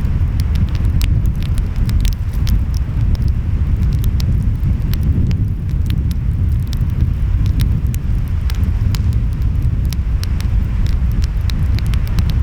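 Wood fire crackling, with frequent sharp pops, over a steady low rumble of ocean waves and wind.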